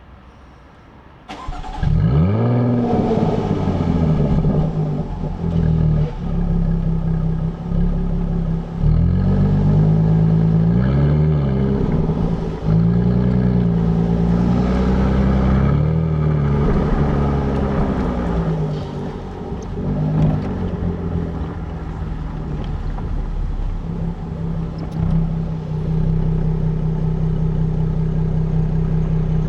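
Stock exhaust of a 2017 Jaguar F-Type, heard close to the tailpipes: the engine starts about a second and a half in with a loud rev flare, then idles steadily. Several quick rev blips rise and fall over the idle.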